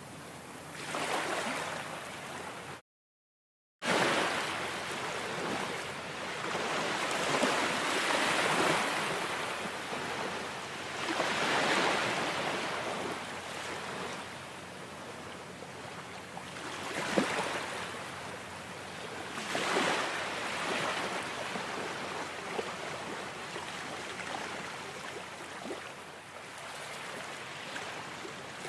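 Ocean surf, waves washing in and drawing back one after another, swelling every few seconds. The sound cuts out completely for about a second near the start.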